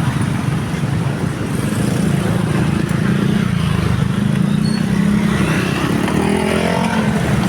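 Road traffic: motorcycle and car engines running steadily, with one engine rising in pitch as it speeds up near the end.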